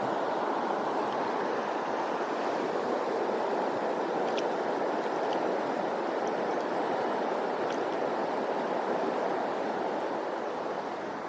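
Mountain stream rushing steadily over rocks, with a few faint ticks around the middle.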